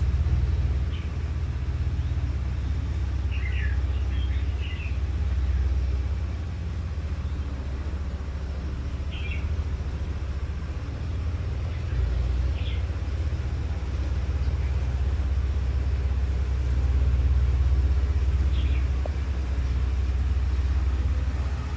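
A steady low rumble that swells and eases, with a few short, high chirps from small birds scattered through it, the first about a second in and the last near the end.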